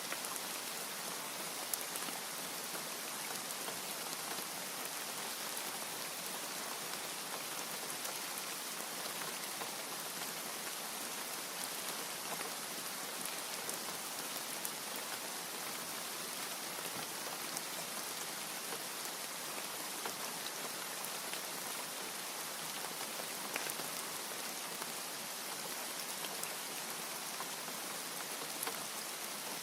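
Steady rain falling: an even hiss with scattered sharp ticks of single drops, and no thunder.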